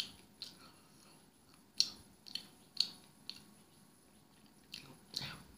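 Close-miked mouth sounds of chewing pizza: a string of short, sharp wet clicks and smacks, about seven of them spaced half a second to a second apart.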